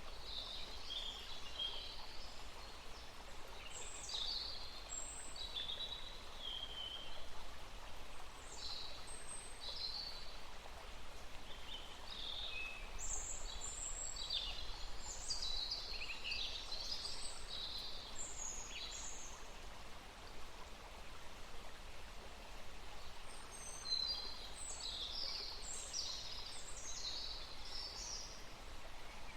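Several songbirds chirping and singing in short, high, quickly repeated phrases, with a brief lull about two-thirds of the way through, over a steady background hiss.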